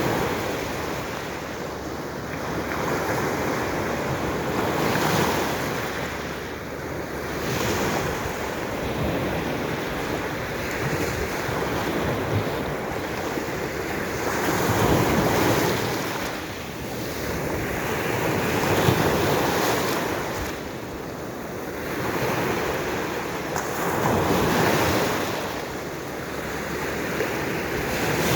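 Baltic Sea waves breaking on the shore, the surf rising and falling every few seconds, with wind on the microphone.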